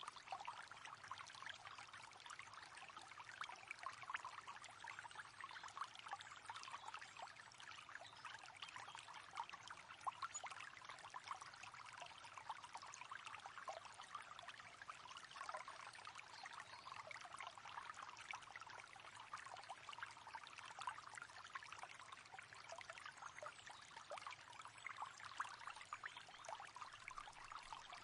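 A river flowing steadily over stones, heard quietly as a continuous rush of water with many small splashes and trickles.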